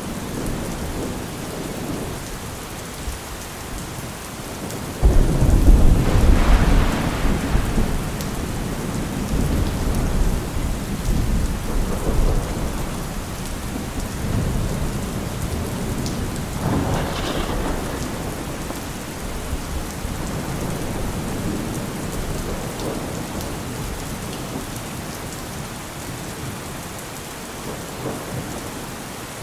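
Heavy rain falling steadily through a thunderstorm. About five seconds in, a loud thunderclap breaks and rolls on as a rumble for several seconds, and a second, weaker roll of thunder comes about halfway through before the rain carries on alone.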